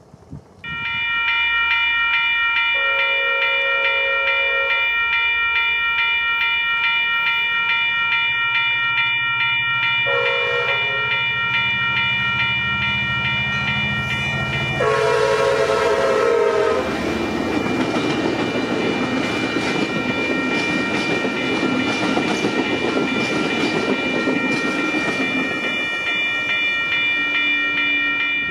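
Amtrak passenger train passing on curved track. A steady high squeal of several tones runs throughout, three lower horn blasts sound about 3, 10 and 15 seconds in, and the rush and clatter of the passing train fills the second half.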